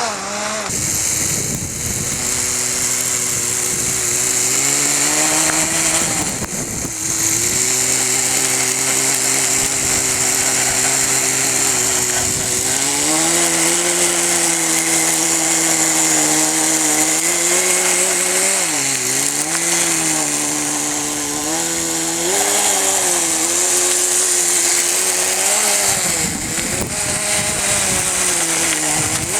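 Small two-stroke nitro glow engine of a Kyosho Nitro Blizzard RC belt-crawler snow vehicle running. It holds a steady note for stretches, then rises and dips several times with the throttle, most of all in the second half.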